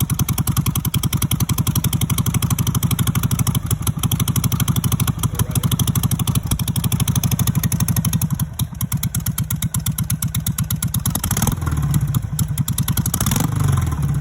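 A 2005 Harley-Davidson 883 Sportster's carbureted V-twin idles with a loud, evenly pulsing exhaust. One side is open pipe with its muffler removed, and one muffler is back on. Near the end the throttle is blipped twice, and the revs rise and fall each time.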